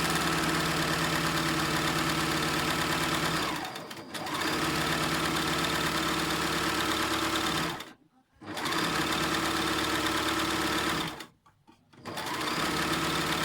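Overlock serger sewing machine running at speed in runs of a few seconds, with a brief slowdown about four seconds in and two short stops, about eight and eleven seconds in.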